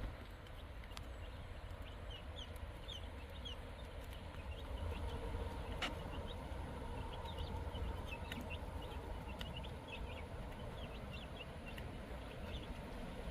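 Chickens clucking and chirping, with many short high chirps scattered throughout, over a steady low rumble.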